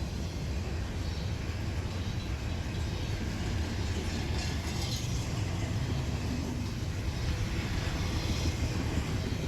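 Freight train cars rolling past on the rails, a steady rumble of wheels on track.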